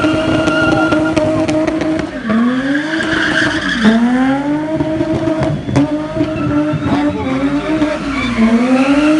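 BMW E30 325i's straight-six held at high revs while the car spins in a cloud of tyre smoke. It runs steadily for about two seconds, then the revs drop and climb back three times, with the rear tyres squealing.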